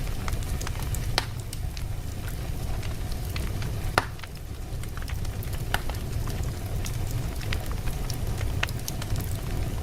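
Wood fire burning in a fireplace: a steady low rumble of flames with irregular sharp crackles and pops from the burning logs, the loudest pop about four seconds in.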